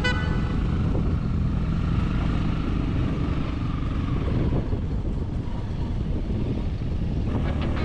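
Motorbike engine running steadily on the road, with wind and road noise.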